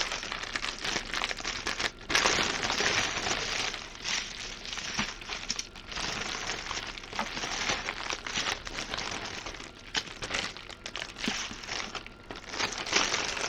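Crinkling of small plastic bags of diamond-painting drills being handled and shuffled through, louder about two seconds in and again near the end.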